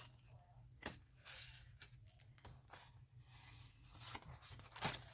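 Paper pages of a handmade art journal being turned by hand: a few soft, brief rustles and swishes.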